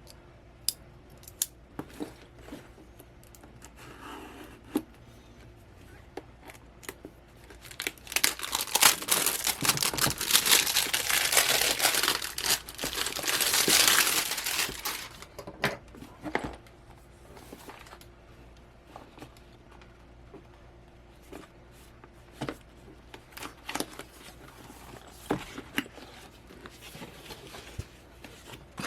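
Packaging being opened by hand: crinkling and tearing, loudest for about seven seconds in the middle, with scattered clicks and taps before and after.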